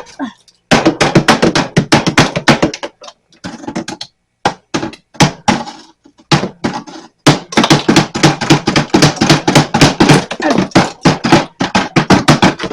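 Rapid runs of hard knocks, several a second with brief pauses, as a scraper chips and hacks at thick built-up ice in a mini fridge's freezer compartment, striking ice and the thin metal freezer walls.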